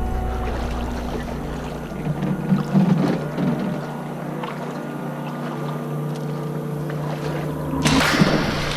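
A boat motor running with a steady hum, with water sloshing and splashing about two to three seconds in and a sudden louder rush of splashing noise near the end.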